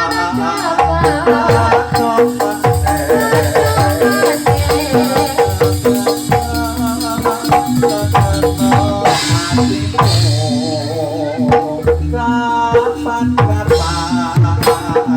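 Javanese gamelan music accompanying a Jathilan dance, played loud, with a repeating melodic pattern over regular drum beats.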